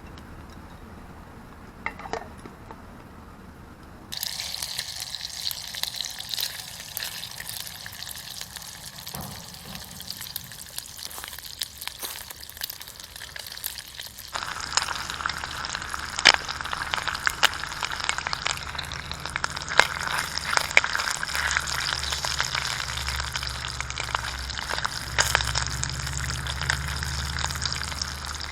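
Food sizzling and crackling in a pan over a wood fire, with many sharp little pops. The sound steps up abruptly about four seconds in and again about fourteen seconds in.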